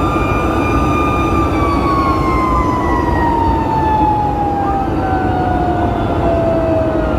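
Fire engine siren holding a high tone, then sliding slowly and steadily down in pitch, with a second siren tone starting to rise near the end. Underneath runs the truck's steady engine and road rumble.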